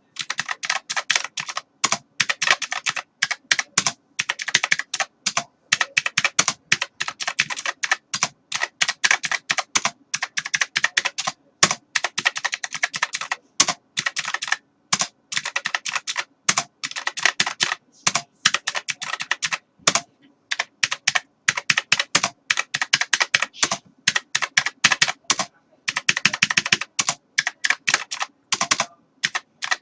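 Computer keyboard being typed on quickly and continuously, keys clicking in fast runs broken by short pauses.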